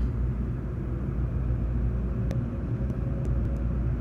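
Cabin noise inside an N700A Shinkansen pulling out of a station: a steady low rumble of the train running. From about halfway through, a faint whine creeps slowly up in pitch as the train gathers speed, and a few light clicks come near the middle.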